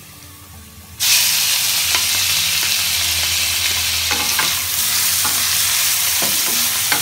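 Hot oil sizzling as moist steamed spinach goes into a stainless-steel karahi: the sizzle starts suddenly about a second in and holds steady, with a few light knocks of a wooden spatula on the pan.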